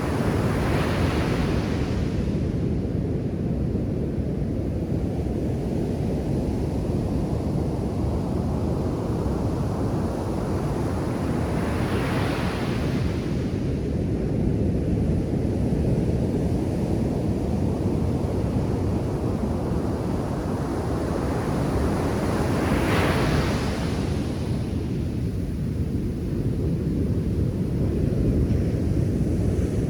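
Ocean surf on a beach: a constant low rumble of water, with a wave breaking into a rushing hiss about every eleven seconds, three times.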